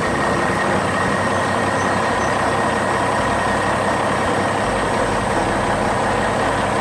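A heavy vehicle engine running steadily, a dense rumbling noise with a few steady tones.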